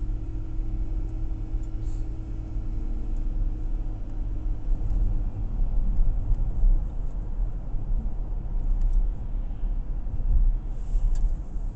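Car engine and road noise heard from inside the moving car's cabin: a steady low rumble, with a low hum that fades about five seconds in.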